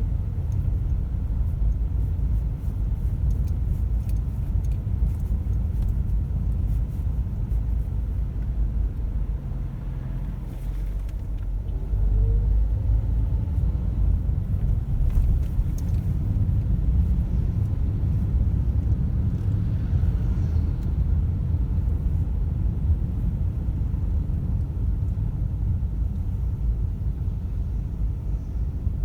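Car driving on a road: a steady low rumble of road and engine noise, getting a little louder partway through.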